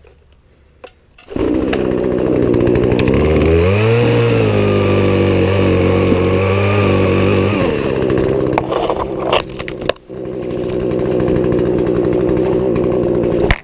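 Poulan Pro two-stroke chainsaw engine coming in suddenly about a second in and running. It revs up, holds at high revs for about four seconds, then drops back to a lower speed. Near two-thirds of the way through it briefly dips before running on.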